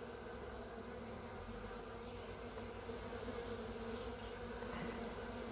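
Steady hum of many honey bees buzzing in flight: a freshly captured swarm, very active.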